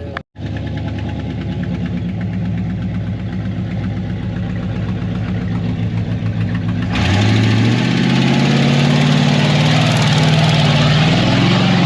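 1989 Chevy C/K 1500 pickup's engine running steadily; about seven seconds in it turns louder and rougher, its pitch rising and falling.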